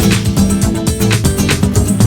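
Background music: a lively track with plucked acoustic guitar and a steady beat.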